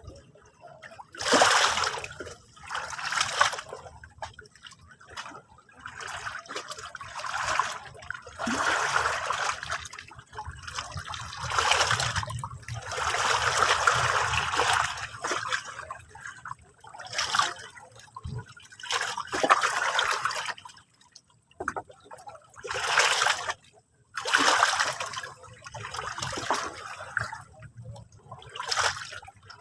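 Sea water washing and splashing against the shore in irregular surges, each lasting from about half a second to a few seconds, with short lulls between.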